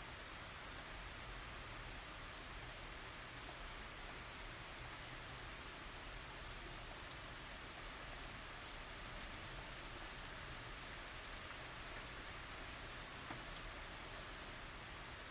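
Steady tropical rain falling on surfaces: an even hiss with scattered individual drops ticking.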